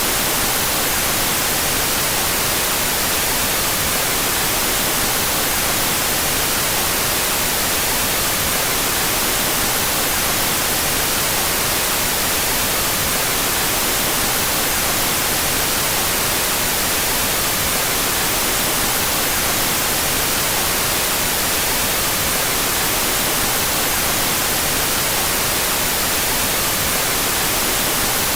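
Steady out-of-phase white noise: an unbroken, even hiss, strongest in the highs and thinner in the bass, with no change throughout.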